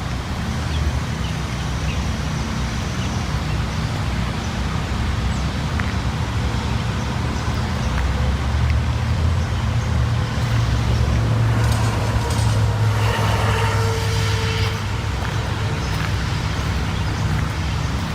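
Car driving slowly, a steady low engine and road rumble, with a short higher clatter and a faint held tone about two-thirds of the way through.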